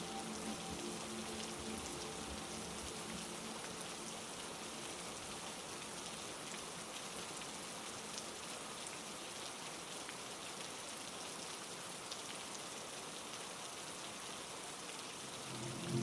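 Heavy rain falling steadily: a dense, even hiss with fine patter of drops. A soft sustained musical tone fades out in the first second, and another swells in at the very end.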